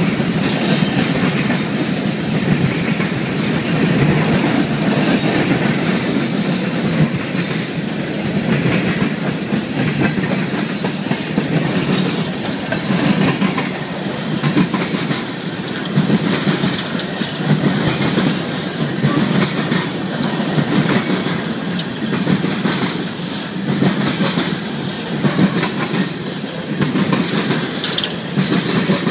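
Coal cars of a freight train rolling past close by: a steady rumble of steel wheels on rail with a rhythmic clickety-clack, swelling and easing as each group of wheels goes by.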